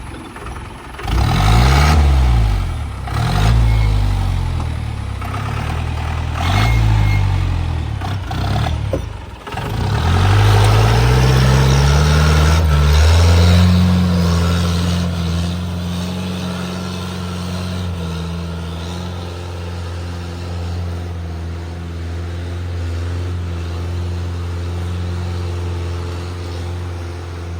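Mahindra 4x4 jeep engine working hard on a steep off-road climb: several revving surges that rise and fall over the first nine seconds, then the revs climb and hold steady for the rest. The surges fit the wheels skidding in first gear in four-wheel drive, and the steady pull fits the shift to second, in which the jeep made it up.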